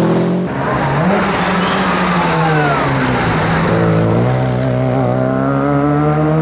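Rally car engine under hard throttle. The revs drop briefly about half a second in, then the pitch climbs steadily from about four seconds in as the car accelerates.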